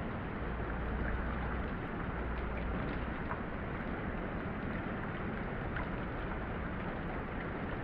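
Steady rain falling, an even hiss with faint scattered drop ticks. A low rumble joins it from about half a second in until about three seconds in.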